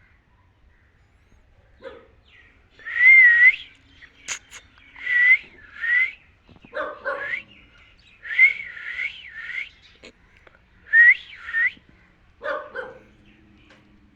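Pet parrot whistling in a string of short phrases, each a note that glides up and down, coming in groups of two or three with gaps between. A few rougher, harsher calls are mixed in among the whistles.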